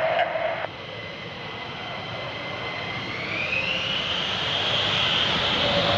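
Military jet engine whine, rising in pitch about halfway through and growing louder, over a steady rush of jet noise. A short crackle of radio transmission comes right at the start.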